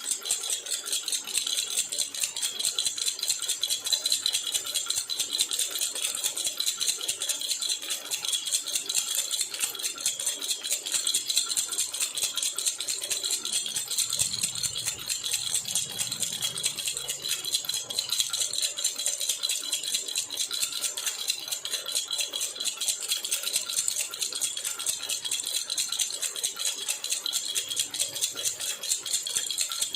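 Jhunjhuna baby rattle shaken continuously, making a fast, even jingle of many small high-pitched strikes.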